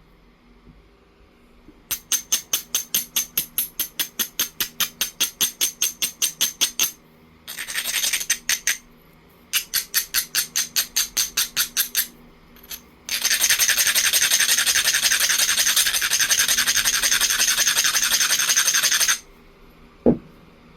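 Coarse abrading stone rasped back and forth along the edge of a jasper preform to grind the platforms, in quick strokes about five a second, then in one long continuous scrape. A single sharp click near the end.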